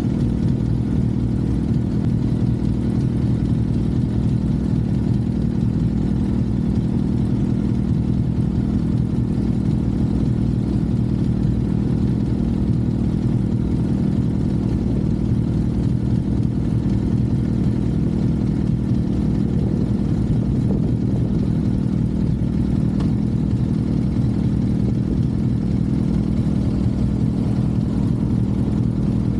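Motorcycle engine running at steady revs, its pitch unchanging with no revving.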